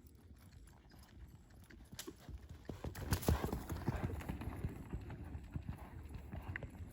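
Hoofbeats of a gaited Tennessee Walking Horse gelding: a quick run of clip-clop strikes that grows louder from about two seconds in, is loudest near the middle, then carries on a little softer.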